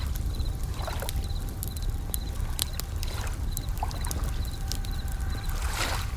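A layered nature-sound mix: a campfire crackling with scattered sharp pops, and bell crickets (suzumushi) singing in short repeated high trills, over a low rumble of waves with a couple of swells.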